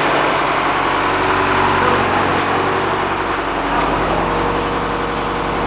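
A 2000 Blue Bird CSFE school bus's engine idling steadily; about two-thirds of the way in, its low hum grows stronger.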